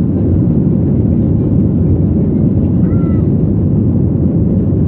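Boeing 737-800's CFM56 jet engines at takeoff power: a loud, steady low rumble.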